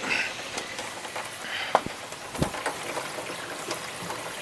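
Water running from a hose into a buffer tank, a steady splashing hiss, with a couple of sharp knocks about two seconds in.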